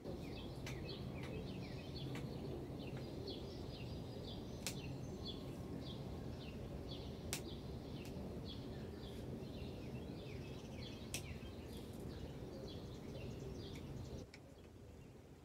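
Songbirds chirping in quick runs of short, falling notes over a steady low background rumble, with a few sharp clicks scattered through. The birdsong and the rumble cut off abruptly about a second before the end.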